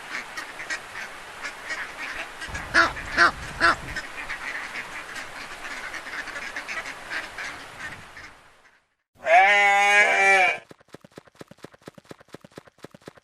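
Ducks quacking over the steady noise of a flock, with a few louder quacks about three seconds in. Near the end a single loud, drawn-out animal call lasting about a second, then a fast run of clicks.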